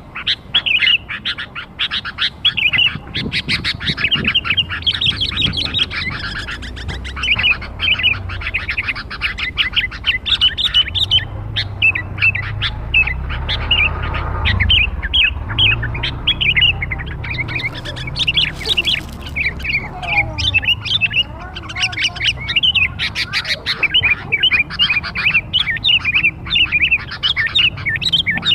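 Young sooty-headed bulbul (kutilang) calling without pause in a rapid, chattering run of short, high chirps. A low rumble sits underneath around the middle.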